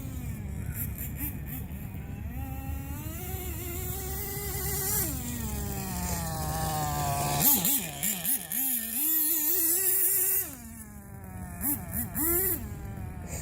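Team Associated RC10GT nitro stadium truck's small glow engine running through a stinger exhaust pipe, its pitch rising and falling as the throttle is worked. Past the middle and again near the end it revs in several quick short bursts.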